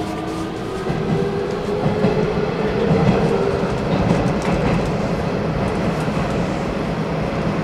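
Hanshin Railway commuter train running on the rails, with a steady rumble of wheels and motors, a held tone, and light clicks of the wheels over rail joints.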